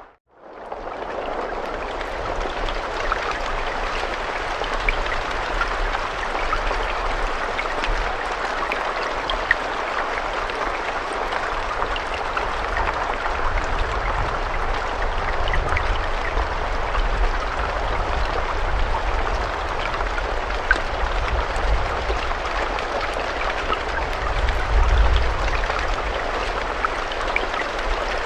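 Steady rain: an even hiss with scattered sharper drop ticks, over a low rumble that swells briefly near the end.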